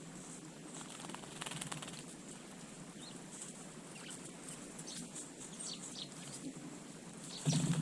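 Small garden birds chirping in short, scattered calls, with wing flutters and a brief louder flurry near the end.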